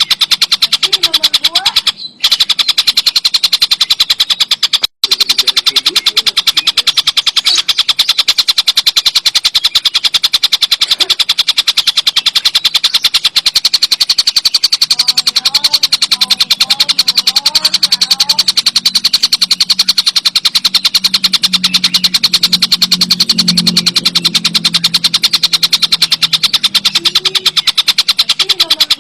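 Tengkek buto kingfisher giving a fast, continuous rattling chatter, a dense run of sharp notes. It breaks off briefly about two seconds in and again about five seconds in.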